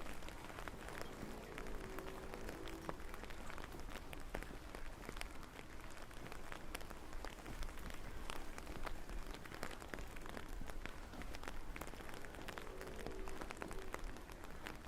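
Steady rain falling, with many individual drops ticking close by over the wash of the downpour.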